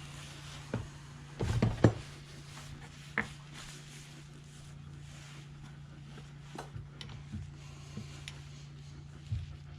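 Knocks and clicks of small pump parts being handled and pressed into place while new valves are seated in a pressure washer pump head, loudest in a short cluster about one and a half seconds in. A steady low hum sits under it.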